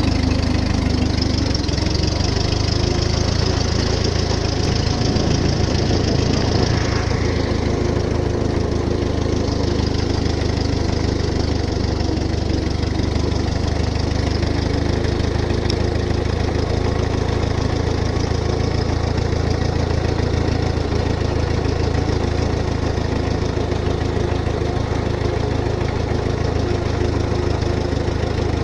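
Ford 8N tractor's four-cylinder flathead engine running steadily as the tractor is driven along.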